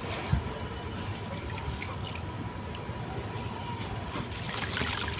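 Gritty crumbling and crunching of a sand-cement block, with one low thud just after the start.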